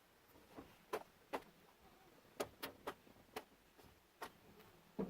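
Light, irregular clicks and taps of hard objects, about eight in all, with no steady rhythm.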